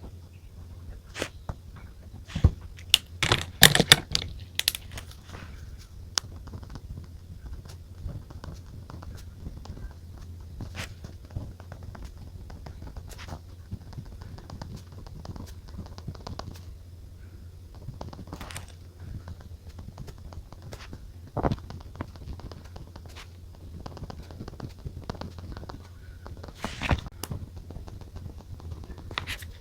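Journaling at a desk: scattered small clicks, taps and scratches of pen and paper being handled, with a quick cluster of louder crackly scratches a few seconds in, over a faint steady hum.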